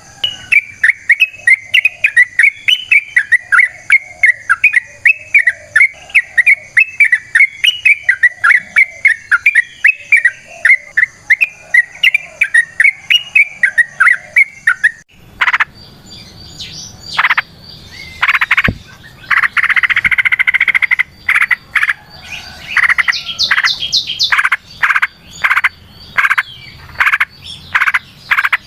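Yellow-vented bulbul (trucukan) singing a long, fast bubbling run of notes, about four a second. About halfway through the sound cuts to loud, harsh croaking calls repeated roughly once a second.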